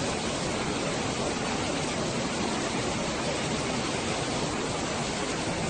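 Steady, even noise of water, holding at the same level with no distinct events.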